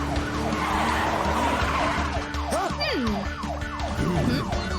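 Animated-cartoon action soundtrack: background music layered with a police-car siren, and a hissing whoosh from about half a second to two seconds in.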